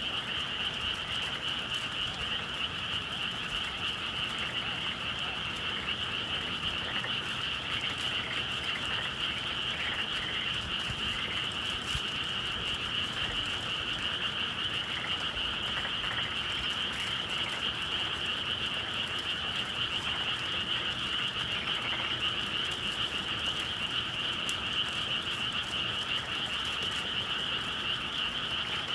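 Dense chorus of many frogs calling at once, a steady high-pitched mass of overlapping calls with no pauses.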